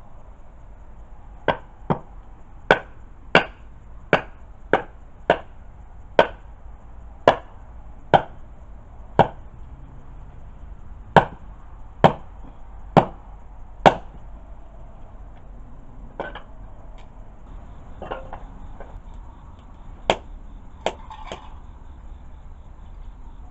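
Repeated chopping: about fifteen sharp chops at roughly one a second, with a short pause halfway through, then a few lighter knocks.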